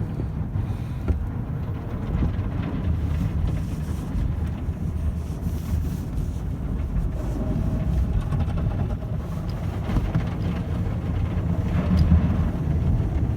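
Tunnel car wash machinery heard from inside the car's cabin: a steady low rumble of spinning brushes and spraying water working over the car body.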